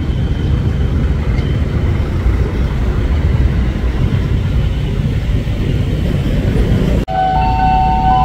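Steady low rumble of a departing long-distance passenger train's wheels on the rails as its rear coach pulls out of the platform. It breaks off suddenly about seven seconds in, and several steady high tones at different pitches start.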